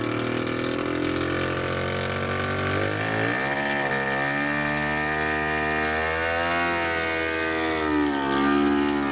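Mitsuoka MC-1 microcar's 50cc engine idling, then revving up about three seconds in as the car pulls away in forward gear, its pitch rising and falling with the throttle. The engine carries an exhaust leak at the muffler.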